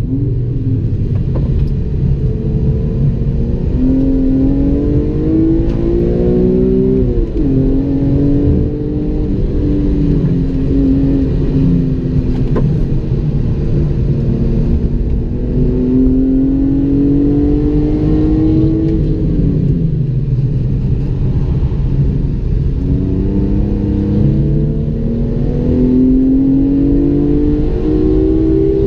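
BMW E46 M3's 3.2-litre straight-six heard from inside the cabin at track speed, climbing in pitch for several seconds at a time as it accelerates and falling back about three times, over steady tyre and road rumble.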